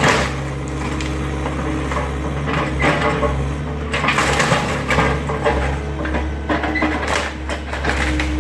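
Excavator's diesel engine running steadily while wood cracks, splinters and crashes as the garage structure is crushed, with a sharp crack at the start and a heavier spell of crunching about halfway through.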